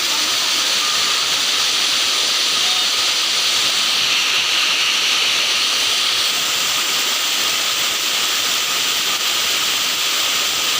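Waterfall rushing: a loud, steady hiss of falling water that does not let up.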